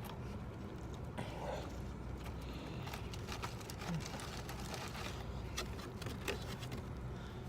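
Scattered faint clicks and crackles from a biscuit being cut in half and handled, over a steady low background hum.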